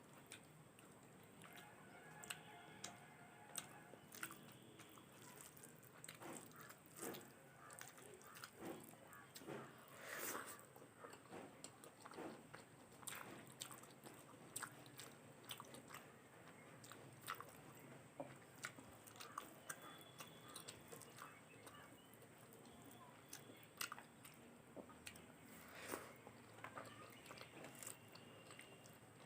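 Faint close-up eating sounds: chewing and mouth noises with irregular small clicks and crunches.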